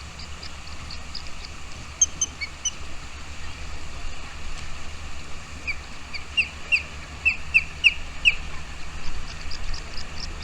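Small birds chirping: a run of about seven sharp, short, downward-slurred chirps in the middle, with fainter rapid high twittering before and after, over a steady low rumble.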